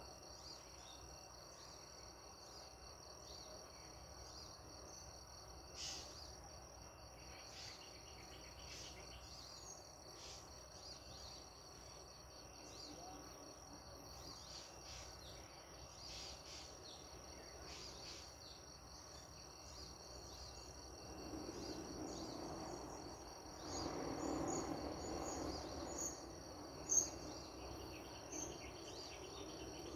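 Crickets or other insects trilling steadily and high, with scattered short bird chirps. A swell of low rushing noise rises from about 21 to 26 seconds in, and one sharp, loud bird note comes near the end.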